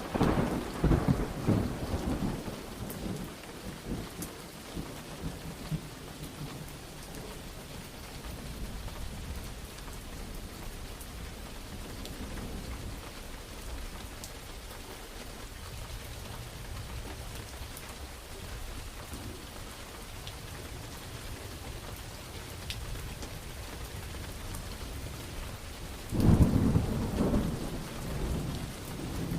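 Steady heavy rain with thunder: a loud thunderclap at the start that rumbles away over several seconds, and another loud clap with rolling rumble near the end.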